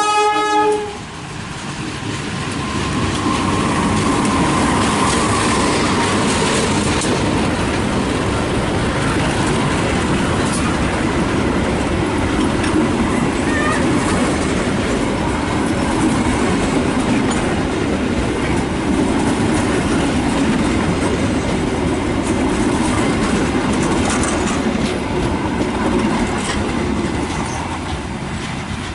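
A train horn sounding and cutting off about a second in, then a train running past with steady loud rolling noise.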